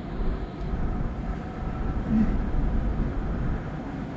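MTR Tung Chung line train running away along an elevated track, a steady low rail rumble as it recedes.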